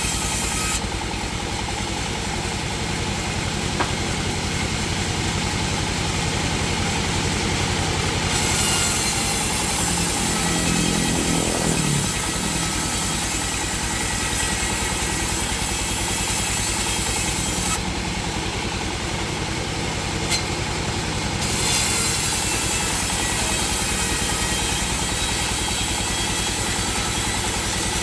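A sawmill's engine running steadily, with a saw cutting through wood. The high hiss of the cut drops out twice and comes back.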